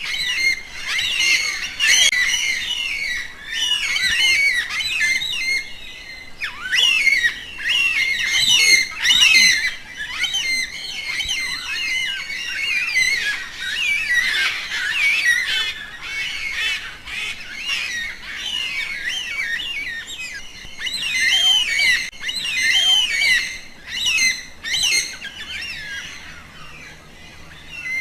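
Many birds calling at once: a dense chorus of short chirps and squawks, overlapping and rising and falling in loudness throughout.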